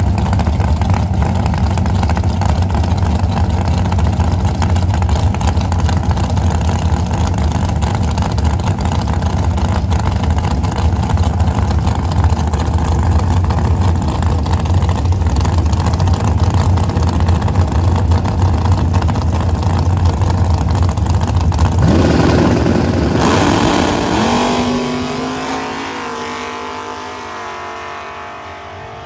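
Drag racing car engines running loudly at the drag strip. About twenty-two seconds in, an engine's pitch climbs sharply as it accelerates, then the sound gradually fades away.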